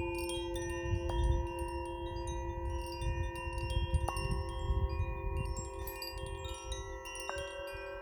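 Chimes ringing: a new metallic note is struck about every three seconds (about one, four and seven seconds in), each ringing on under the next, over a low rumbling noise.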